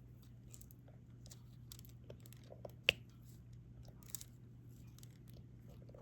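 Small, faint clicks and taps of a diamond painting stylus picking up resin drills and pressing them onto the adhesive canvas, with one sharper click about three seconds in, over a steady low hum.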